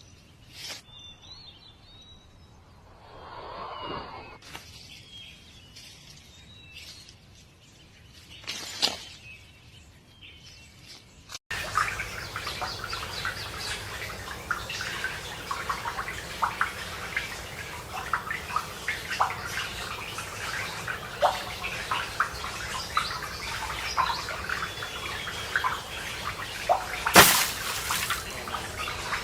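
Birds chirping, with many short calls that become busier after an abrupt cut about a third of the way in, and a single sharp knock near the end.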